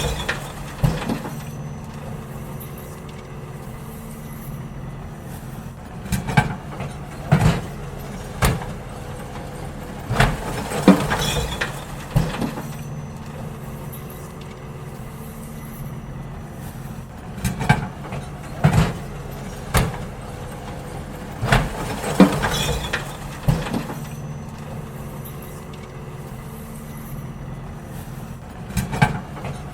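Garbage truck engine running steadily while bins are emptied, with short clusters of knocks and clatters every few seconds.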